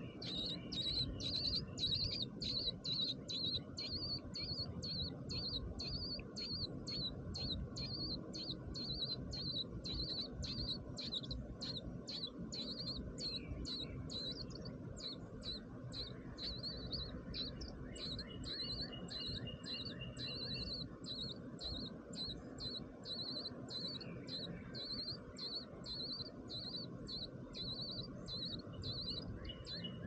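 Small bird chirping: short high chirps repeated steadily about three times a second, with a thin high whistle held for a few seconds about two-thirds of the way through.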